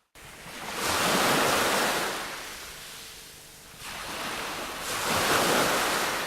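A rushing noise that swells and fades twice, about four seconds apart, like waves washing in.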